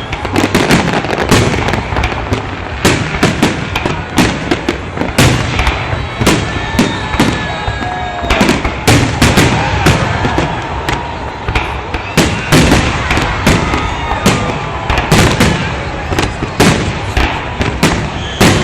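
Salute fireworks going off in quick succession: a continuous run of sharp bangs and crackles, several a second, with no pause.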